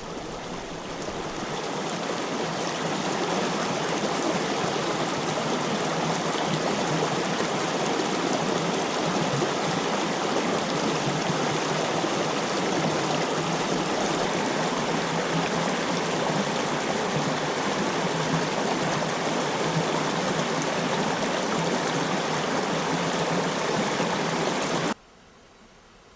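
Stream water running steadily over rocks, swelling in over the first few seconds and cutting off abruptly near the end.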